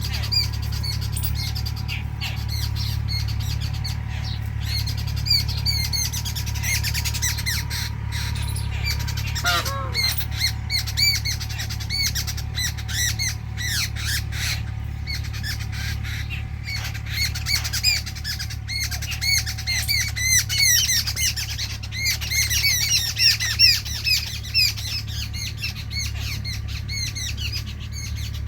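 Many birds chirping and chattering in dense, overlapping calls, busiest about three quarters of the way in, with a few lower, falling calls about a third of the way through. A steady low hum runs underneath.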